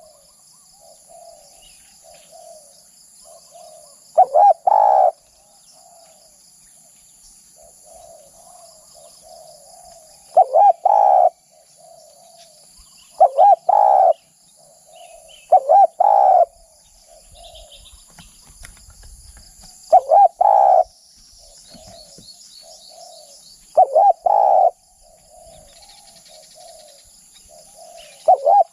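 Spotted dove cooing: loud phrases of two or three quick coos, repeated every three to six seconds, with softer coo notes between them. Faint high chirping runs steadily behind.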